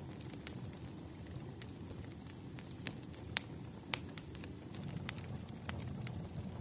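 Wood fire crackling and popping over a steady low rumble of burning logs, with irregular sharp pops, the loudest a little after three seconds and just before four.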